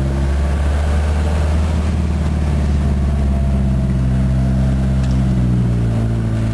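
Ford Mustang's turbocharged 2.3-litre four-cylinder engine running loud and raw under load in first gear, its exhaust open after backfires blew out the rusted muffler. The engine note stays fairly steady, sagging a little midway and climbing again near the end.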